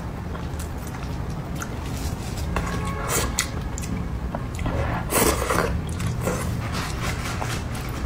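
Close-up chewing and mouth sounds of someone eating a bony piece of braised fish: wet smacks and small clicks at irregular moments, loudest about five seconds in, over a low steady hum.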